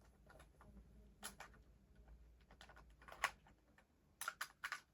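Faint, scattered clicks and taps of plastic toy-train packaging being handled and undone, with a quick run of several clicks a little after four seconds in.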